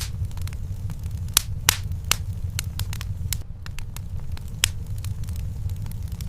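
Wood fire in a fireplace crackling, with sharp pops at irregular intervals, the loudest about a second and a half in, over a steady low rumble.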